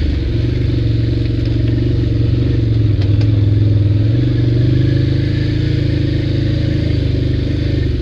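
ATV engine running while riding, its pitch rising a little about halfway through and then easing back.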